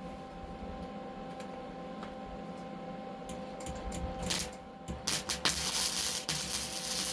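Lincoln welder humming steadily, then gasless flux-core wire arc welding: a few short strikes about four to five seconds in, then a steady crackling, hissing bead for the last couple of seconds.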